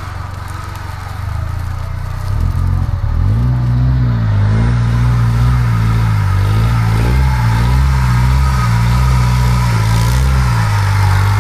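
Old Jeep Cherokee engine running, then from about two seconds in revving up and down over and over as the throttle is worked under load. It settles back to a steady run near the end.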